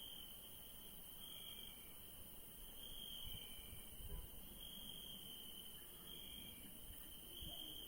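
Crickets chirping faintly: a steady high trill that swells about every second and a half, with a fainter, lower-pitched chirp between the swells.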